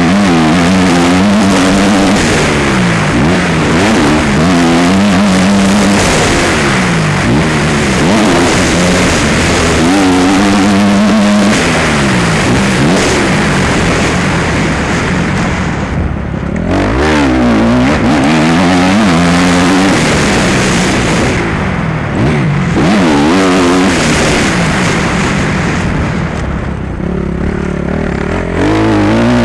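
Motocross bike engine running hard on the track, its pitch climbing and falling over and over as the rider works the throttle and gears. The throttle is shut off briefly a few times, about halfway through, a little after that, and again near the end.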